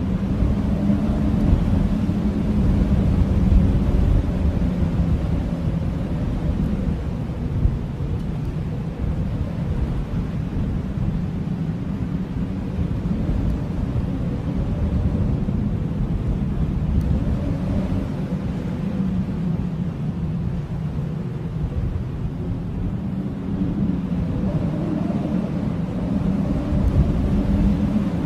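Blizzard wind howling: a steady low rumble with faint moaning tones that slowly waver and swell every several seconds.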